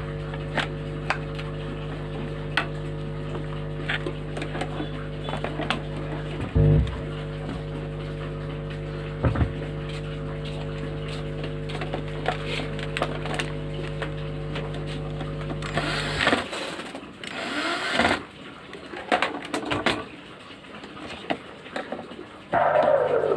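Steady electrical mains hum with its overtones, from the audio equipment being tested, broken by scattered clicks. The hum cuts off about two-thirds of the way in, leaving rustling and clicking handling noises. It comes back near the end together with a falling tone.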